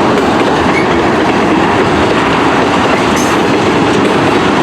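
Freight train cars rolling past: a loud, steady rumble and clatter of steel wheels on the rails.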